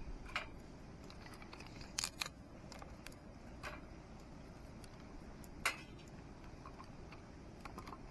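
A ferrocerium fire-starter rod scraped with its striker: about five quick, sharp scrapes at uneven gaps, with fainter ticks between.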